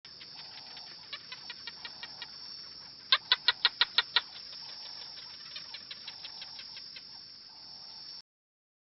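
Wildlife soundscape: a steady high insect-like drone with repeated runs of rapid, sharp clicking calls at about six a second. The loudest is a run of seven clicks about three seconds in. Everything cuts off abruptly near the end.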